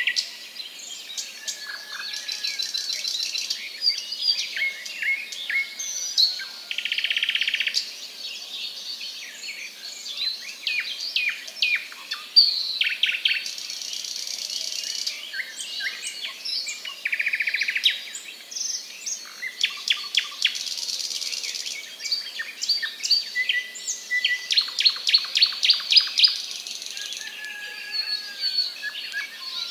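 Birds chirping and calling: many short, sharp chirps, a few harsh buzzy calls, and quick runs of rapidly repeated notes in the second half.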